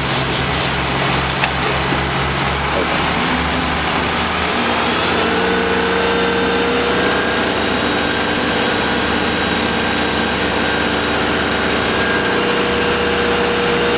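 A small engine running steadily; about five seconds in it settles to a constant whining pitch. A single sharp tick sounds about a second and a half in.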